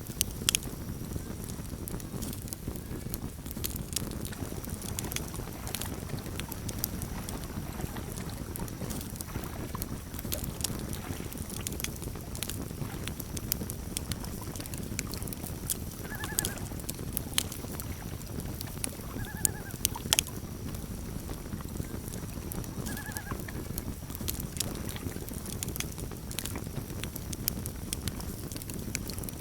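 Campfire crackling and popping over a low steady rumble of the flames. Three short calls from a loon sound about halfway through, a few seconds apart.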